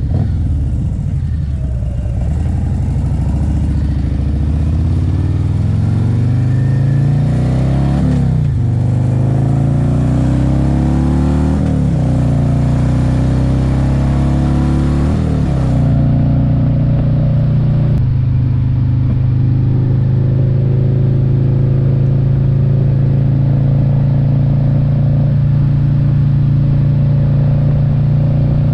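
2024 Harley-Davidson Road Glide's Milwaukee-Eight 117 V-twin accelerating through the gears. Its pitch climbs and drops back at each of several upshifts, then it runs steadily at cruising speed for the last dozen seconds.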